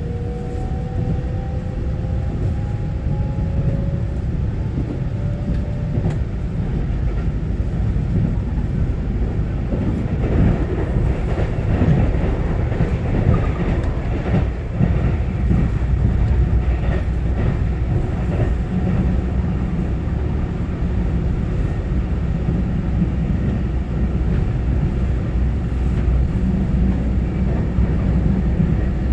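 Interior running noise of a Taiwan Railway EMU900-series electric multiple unit: a steady low rumble of wheels on rail. Over the first six seconds a thin whine from the traction equipment rises slowly in pitch.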